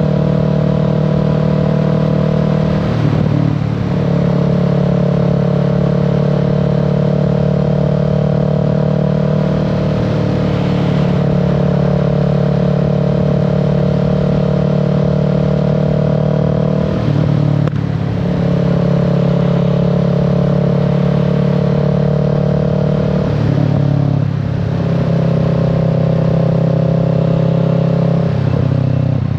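Kawasaki Z650's parallel-twin engine running steadily under way. Its note dips briefly and settles at a new pitch four times: about three, seventeen, twenty-three and twenty-eight seconds in.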